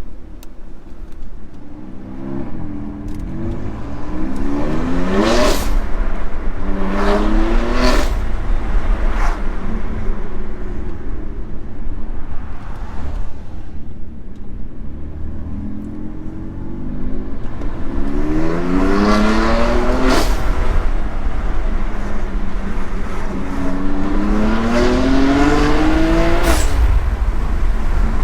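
BMW F80 M3's twin-turbo straight-six (S55) accelerating hard through the gears on an M Performance exhaust with the secondary cats deleted, for a straight-piped sound. The engine note climbs in pitch and drops back at each upshift, in two runs of three pulls with a quieter cruise between them.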